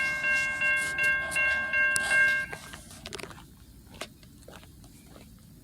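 Railroad crossing bell ringing in quick even strikes, about two and a half a second, then stopping about two and a half seconds in. Faint scattered clicks follow.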